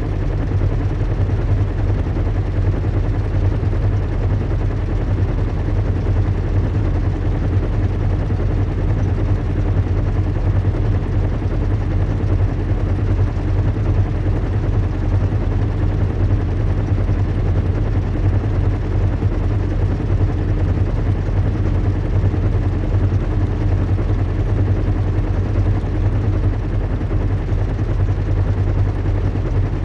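Recreated zeppelin in-flight ambience: the steady low drone of airship engines and propellers, with a deep hum under an even rushing noise and no change throughout.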